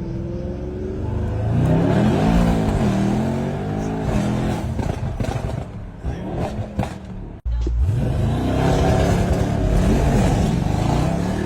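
Mercedes-AMG E63 S V8, tuned to over 990 hp, revving hard, its pitch rising and falling several times, with an abrupt jump about seven and a half seconds in where one clip cuts to the next.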